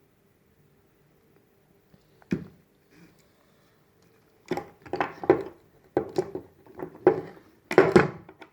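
Metal tools clacking and knocking while a handbrake cable fitting is crimped: one knock about two seconds in, then from about halfway an irregular run of sharp clacks that is loudest near the end.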